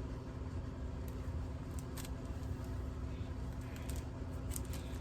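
Steady low background hum with a few faint clicks, such as small handling noises.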